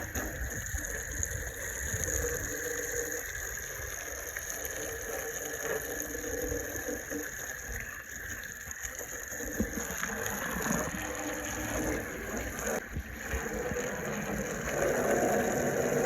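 Water spray rinsing a car, the jet splattering off the paint as a steady crackling hiss.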